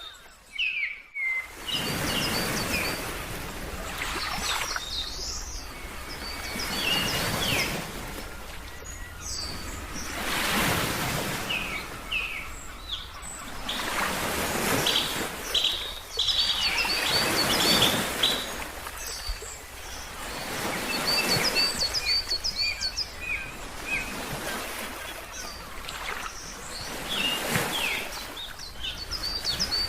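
Ocean waves washing in and out, swelling every three to four seconds, with birds chirping in quick runs of short, high notes over them. The sound drops out briefly at the very start.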